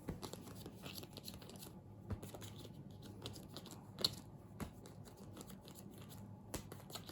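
Songbirds game cards being dealt out by hand onto a table: a faint, uneven run of light card snaps, slides and taps, with one sharper tick about four seconds in.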